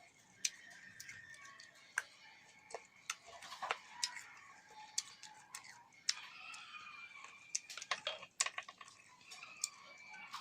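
Close-up eating sounds: irregular sharp crunches and mouth clicks of someone biting and chewing green mango with salt and chili. Faint wavering calls, like chickens clucking, sound in the background.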